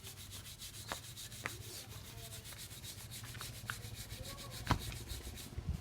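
A brush scrubbing motorcycle engine parts in quick, even back-and-forth strokes that stop just before the end, with a few sharp knocks, the loudest about three-quarters of the way through.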